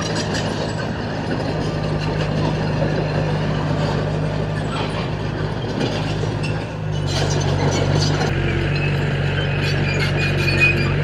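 Diesel engine of a heavy earthmoving machine running steadily under load. About seven seconds in its note shifts and rises a little, and short metallic clattering comes through there and again near the end.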